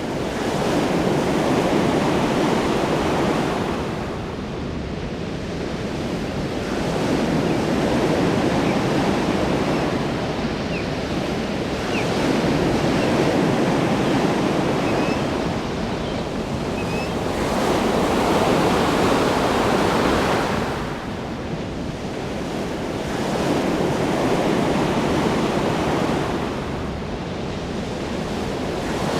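Ocean waves breaking on a shore in a steady wash, each wave swelling and easing about every four to five seconds.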